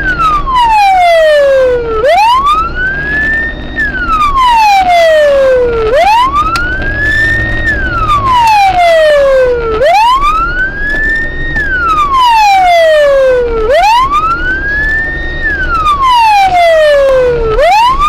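Police car siren in wail mode, rising and falling in a slow cycle about every four seconds, over a steady low vehicle hum.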